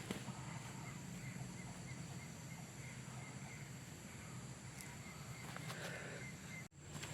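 Outdoor night-time ambience: a steady background hiss with a run of short, evenly spaced animal chirps, a little over two a second. The sound drops out abruptly for an instant near the end.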